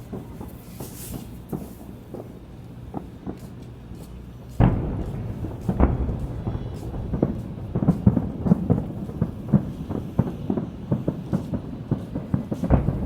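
Aerial fireworks bursting: scattered pops at first, then a heavy boom about a third of the way in starts a dense run of rapid bangs and crackles.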